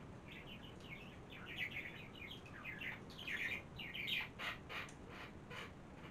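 A small songbird singing: a quick, jumbled run of high chirps, ending in a string of sharp, evenly spaced notes about three a second.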